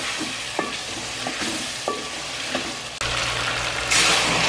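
Chicken frying in masala in an aluminium pot, sizzling as a wooden spoon stirs it and knocks against the pot about four times. Near the end a louder, brighter hiss starts as water is poured into the hot pot.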